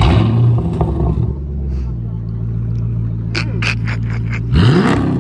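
Chrysler 300C V8 with a loud modified exhaust starting with a sudden loud burst and settling into a deep, steady idle. Near the end it is revved once, the pitch rising quickly.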